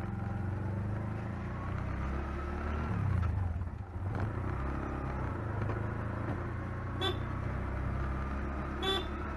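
Toyota Fortuner SUV on the move, a steady engine and road rumble heard from inside the cabin. Two short horn toots sound near the end, about two seconds apart.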